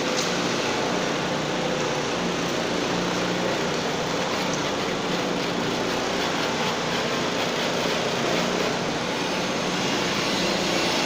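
Gasoline-engine concrete power trowel running steadily at a constant speed, a continuous engine hum over broad machine noise as it works a floor.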